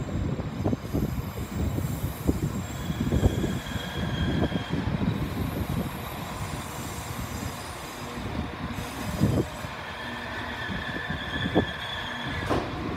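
Northern passenger train drawing slowly into a platform, its wheels knocking over the rail joints, with a steady high squeal from the wheels and brakes twice as it slows and a short rising squeal near the end.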